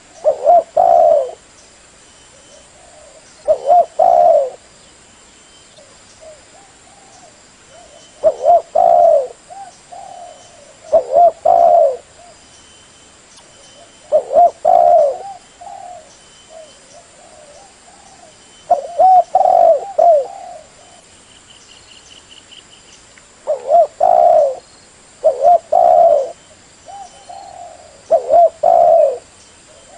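Spotted dove (terkukur) cooing: short phrases of a few low, fluting coos, repeated every few seconds, a recording used as a lure call.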